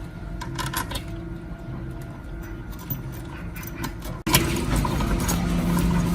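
A steady mechanical hum with light metallic clicks and clinks; about four seconds in it abruptly becomes louder.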